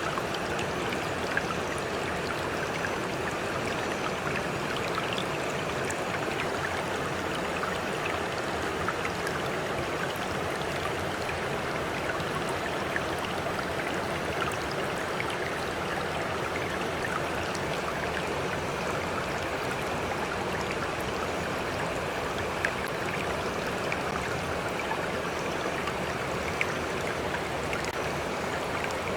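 Stream flowing steadily, a continuous rushing of water with small splashes and drips scattered through it.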